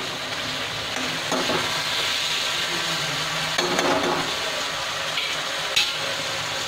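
Diced potatoes and tomatoes frying in spiced oil in a steel pan, a steady sizzle, while a steel spoon stirs and scrapes through them with a few sharp clinks against the pan.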